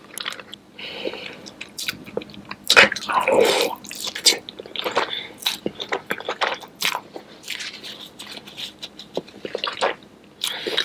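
Close-miked eating of saucy seafood boil: wet chewing, biting and smacking with many small clicks. There is a louder, longer wet noise about three seconds in.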